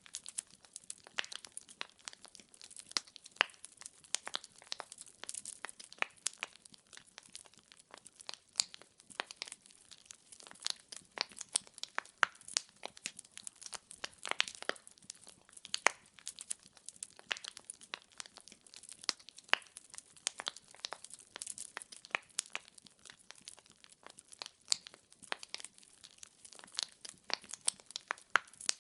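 Wood fire burning in a fireplace: logs crackling and popping with many irregular sharp snaps over a soft hiss.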